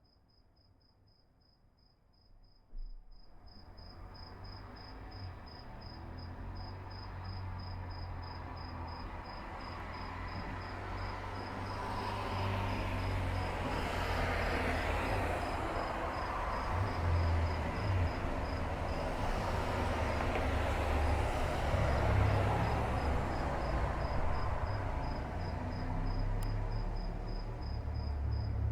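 A cricket trilling steadily, a fast even pulsing at a single high pitch. About three seconds in, a broad rushing noise with a low rumble starts and slowly grows louder until it is the loudest sound.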